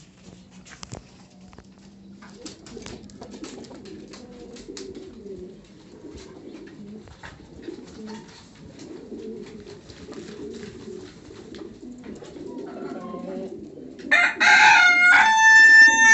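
Domestic pigeons cooing in a low, rolling murmur, with a few light clicks at first. About two seconds before the end, a rooster breaks in with a loud crow, the loudest sound here.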